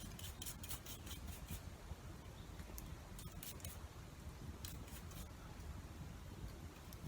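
Clusters of short, crisp clicks and snips, several quick ones in a row, three times, over a steady low rumble.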